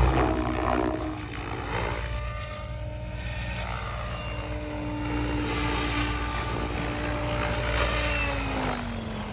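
Tron 7.0 Advance electric RC helicopter flying, its rotor blades and electric motor giving a steady whine whose pitch falls near the end.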